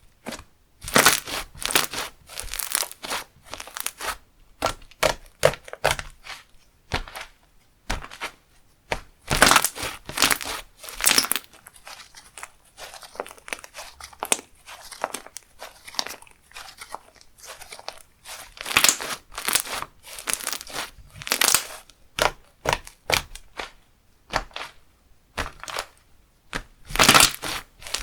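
Slime being squished, stretched and folded by hand: irregular clusters of sticky crackling and popping as trapped air bursts, with short pauses between handfuls.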